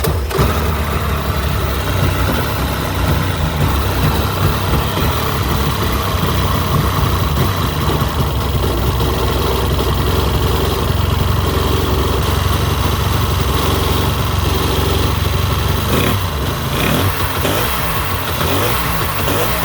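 1996 Yamaha WaveRaider 1100's two-stroke three-cylinder engine starting with its choke on and then running steadily. The carburettors are open, with the flame arrestor removed.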